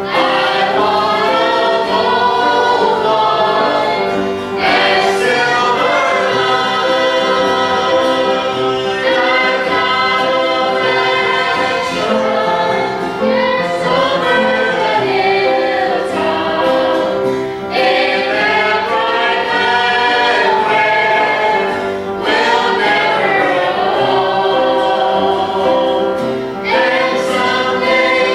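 A small group singing a gospel song together in harmony, in sung phrases a few seconds long.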